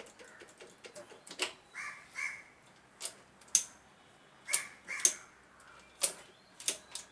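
Crows cawing, two or three caws at a time, against a run of sharp clicks and knocks from engine parts being handled during assembly; the clicks, about six of them, are the loudest sounds.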